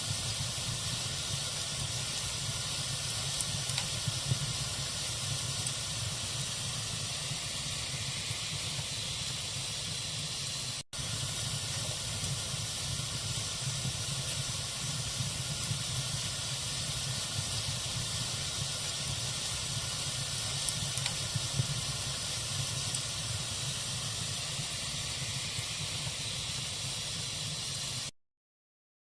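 Logs burning in a fireplace: a steady hiss of flame with scattered small crackles and pops. It breaks off for an instant about eleven seconds in, and cuts off suddenly near the end.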